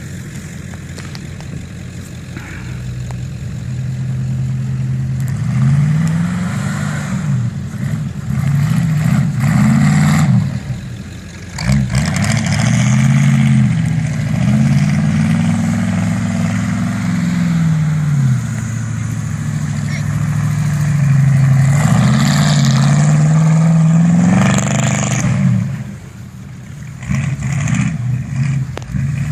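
A pickup truck engine revving up and down over and over, its pitch climbing and falling with each push of the throttle, easing off briefly near the end.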